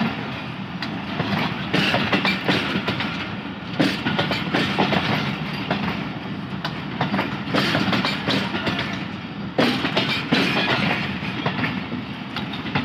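Pakistan Railways passenger coaches of the departing 129 Up Thal Express rolling past, their wheels clattering over the rail joints, with a louder knock every two seconds or so as each bogie passes.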